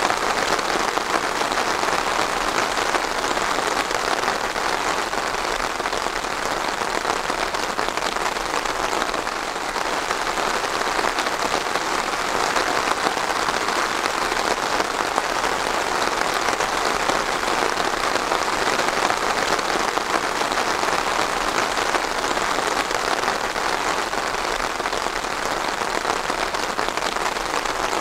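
Steady rain falling on a surface, a dense even patter without letup.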